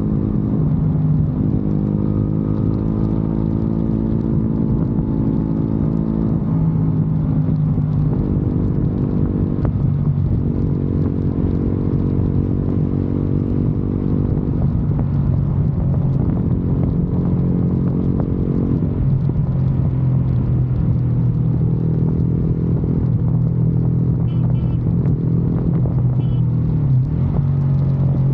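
Motorcycle engine running while riding, a steady low exhaust note that dips briefly every few seconds where the throttle is eased, then picks back up.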